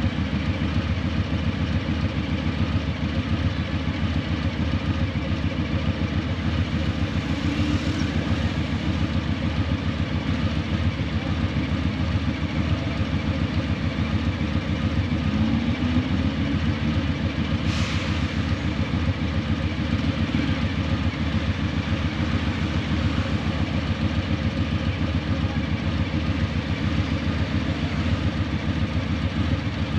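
Harley-Davidson Breakout 117's Milwaukee-Eight 117 V-twin running steadily through Vance & Hines Eliminator 300 slip-on mufflers, a deep, even exhaust note with no big revs. Two brief clicks sound about 8 and 18 seconds in.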